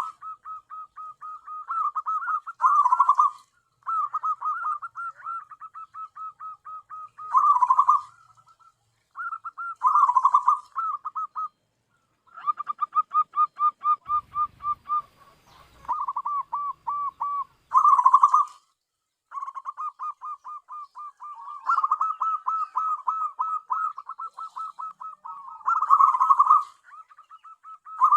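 Zebra dove (perkutut) cooing: long strings of rapid, short staccato notes, broken by louder bursts every few seconds.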